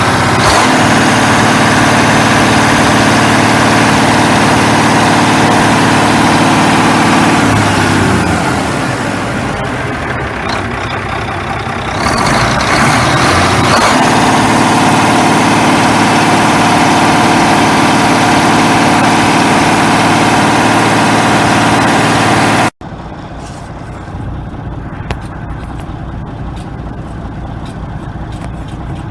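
Mack EM6 inline-six diesel engine, out of the truck, running at a steady raised speed. About eight seconds in it slows to a quieter idle, then it is brought back up to speed about five seconds later. The sound cuts off abruptly near 23 seconds and gives way to a quieter running sound with light ticks.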